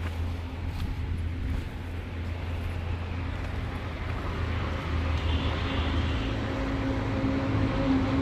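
Tractor diesel engine idling steadily with a low, even hum, growing a little louder about halfway through.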